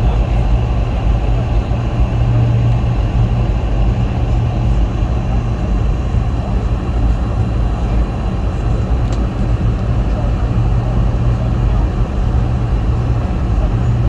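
Steady cabin noise inside a Boeing 717 in flight on its approach to landing: a constant rush of airflow and engine noise over a strong low hum.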